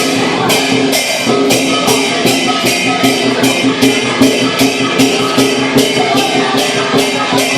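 Chinese lion dance percussion: cymbals clash about twice a second in a steady beat over the drum, with a ringing metallic tone sustained underneath.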